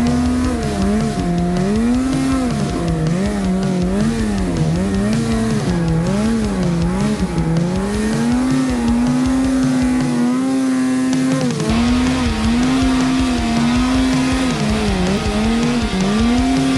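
Snowmobile engine revving up and down over and over as the throttle is worked, holding steady for a few seconds at a time in between.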